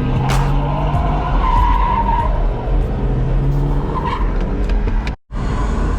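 Truck doing a burnout: the engine runs hard while the tyres spin and squeal on the pavement. The sound drops out for an instant near the end.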